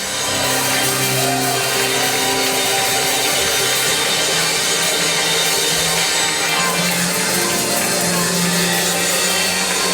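Church music: held keyboard chords that change every second or two over a steady bright wash of sound.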